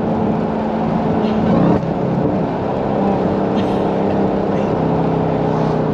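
Jeep Grand Cherokee Trackhawk's supercharged 6.2-litre V8 running at a steady engine speed, holding one pitch with a brief dip about two seconds in.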